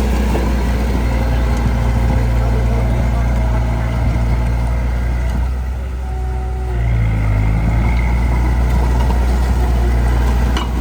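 Heavy-equipment diesel engine running steadily. About six seconds in it eases off briefly, then picks back up with a change in pitch.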